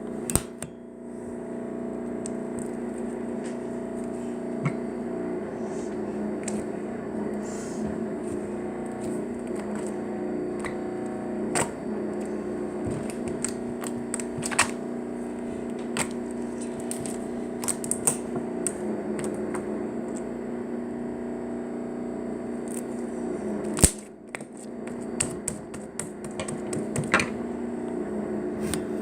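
Slime being played with by hand: irregular sticky clicks and pops as it is pressed and pulled, with a sharp louder pop about 24 seconds in, over a steady background hum.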